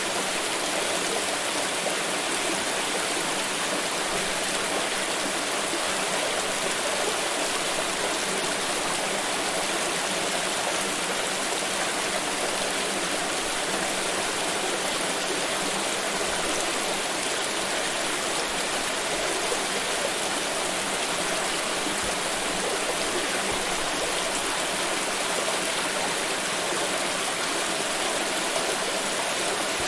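Water pouring in a steady, unbroken flow.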